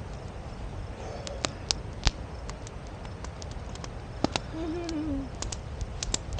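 Campfire crackling: irregular sharp pops and snaps from the burning wood over a steady low background.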